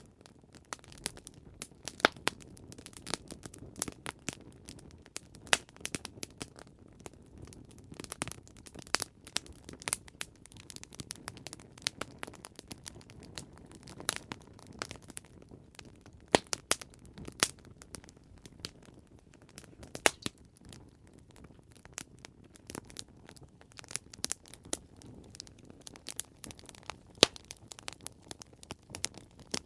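Campfire crackling: many sharp, irregular pops and snaps over a soft low rumble of burning.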